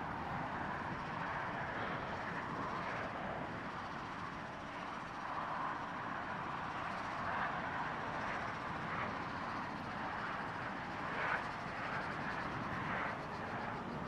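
Diesel-electric locomotive of Pacific National's NR class running steadily, a continuous engine and cooling-fan noise.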